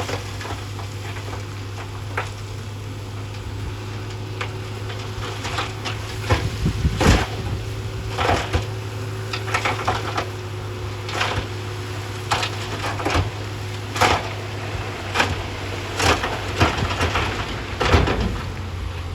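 A heavy machine's diesel engine runs steadily at a low hum while rocks knock and crack against each other irregularly, the knocks coming more often from about six seconds in.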